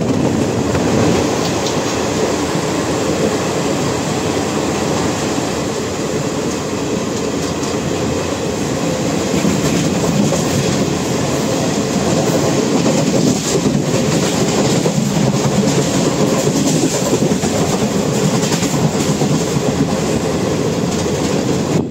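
Passenger train running at speed, heard from the open door of a coach: a steady loud rumble of steel wheels on the rails, with a few sharper clacks from the track about halfway through, and a little louder in the second half.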